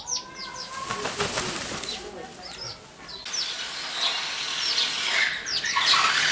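Small birds chirping, many short high chirps in quick succession, over a rustling noise that comes about a second in and swells again in the second half.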